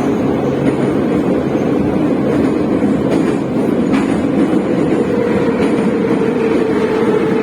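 Moscow metro train running between stations, heard from inside the car: a steady loud rumble of wheels on rails with a steady whine, and a sharp click about four seconds in.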